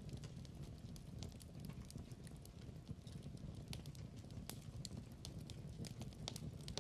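Wood fire in a fireplace crackling: irregular sharp pops and snaps over a soft, steady low rumble of the burning.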